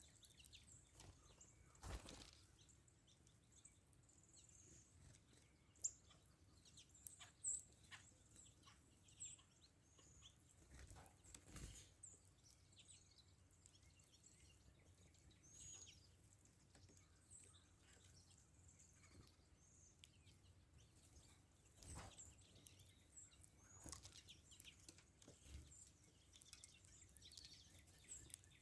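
Faint, scattered short bird chirps and calls over a quiet background hiss, with a few soft knocks spread through.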